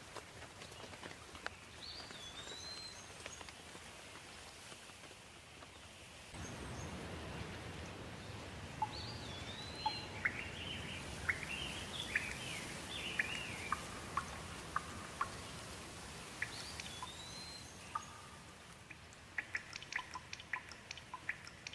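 Steady rain with songbirds calling over it in short rising and falling chirps and whistles. About six seconds in the rain grows heavier, and near the end quick drips patter sharply.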